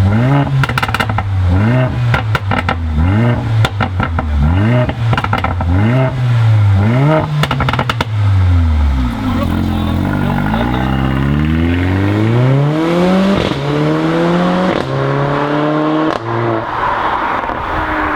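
Mercedes-AMG car engine blipped hard over and over, about once a second, with exhaust crackles and pops. It then settles, and the car accelerates away, the engine note rising through three gear changes.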